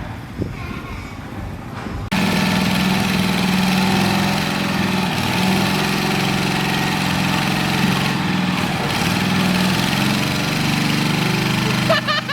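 Small petrol engine of a homemade go-kart running steadily. About two seconds in it suddenly becomes much louder and stays steady.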